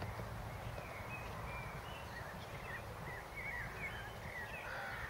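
Birds chirping in scattered short calls over a steady low rumble.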